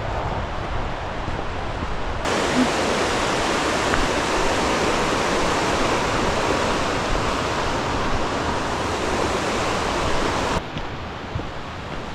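Rushing water, a steady even rush of noise. It turns abruptly louder and brighter about two seconds in and drops back just as abruptly near the end.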